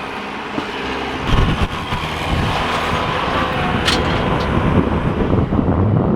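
Tractor engine running, getting louder about a second in, with one sharp clank about four seconds in.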